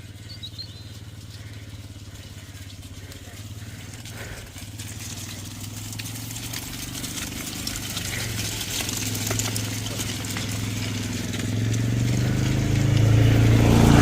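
Engine of an approaching vehicle: a steady low hum that grows louder through the second half, loudest near the end.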